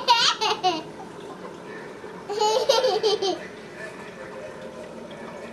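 A toddler laughing in two short bursts of high-pitched giggles, one at the start and another about two seconds later.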